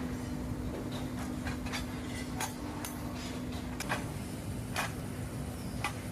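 Factory machinery hum, steady until it stops about two-thirds of the way through, with a scatter of sharp metallic clanks and knocks from steel parts being handled or struck.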